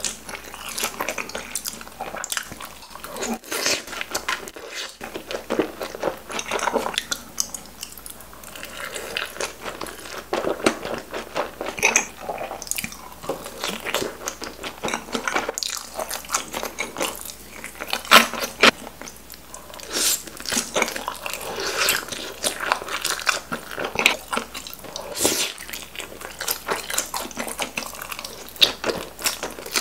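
A person biting and chewing big mouthfuls of dumplings close to the microphone, with many sharp mouth clicks and smacks at irregular intervals.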